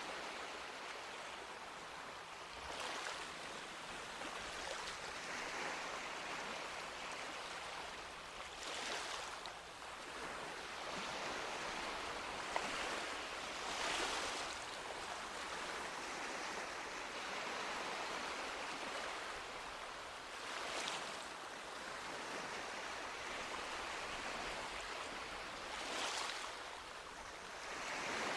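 Sea waves breaking on a beach: a continuous wash of surf that swells about every five or six seconds as each wave comes in.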